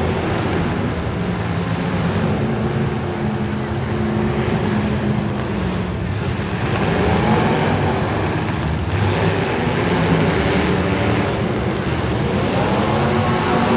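Demolition derby cars' engines running together, with engines revving up in pitch about halfway through and again near the end.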